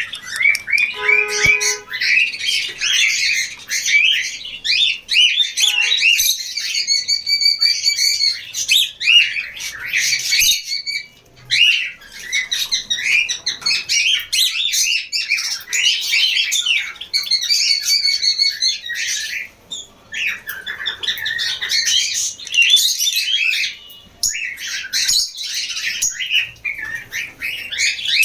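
A crowd of small parrots, lovebirds and cockatiels, chattering together: shrill chirps and squawks overlap almost without a break, with a few short lulls.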